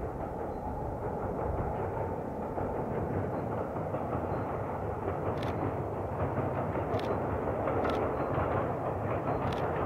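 Passenger train running across a steel truss railway viaduct: a steady rumble that grows slowly louder, with a few sharp clacks in the second half.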